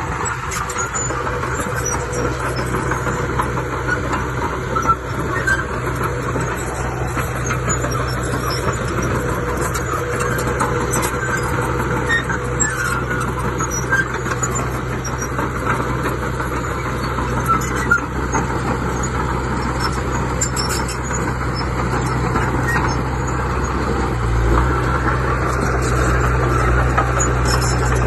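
Diesel engine of heavy earthmoving machinery running steadily, with scattered clicks and clanks over it. About three-quarters of the way through, the engine gets louder and deeper.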